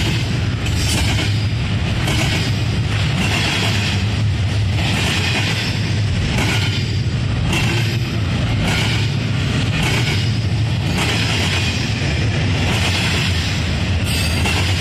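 Doublestack container freight train rolling past: a steady rumble and wheel-on-rail hiss, with wheels clicking over rail joints at an uneven rhythm, often in quick pairs.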